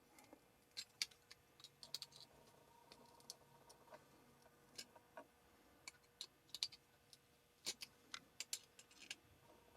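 Scattered light clicks and taps, irregular and sharp, of fencing wire being handled and worked with hand pliers.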